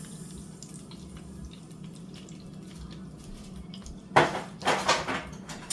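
Chicken wings deep-frying in oil with a light, steady crackle; about four seconds in, a few louder rushes of noise break over it.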